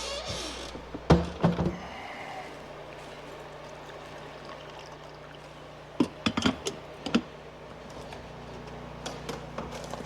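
Several sharp knocks and clatters in three short clusters, over a low steady hum.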